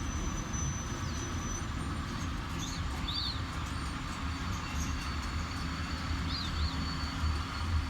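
Steady low rumble of a passing Amtrak passenger train rolling by on the rails. A small bird chirps a few quick notes twice over it, about three seconds in and again about six and a half seconds in.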